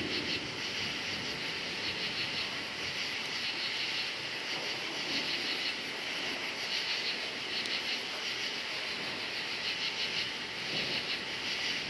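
Crickets chirping in a steady, pulsing chorus, with low thunder rumbling underneath that swells near the end.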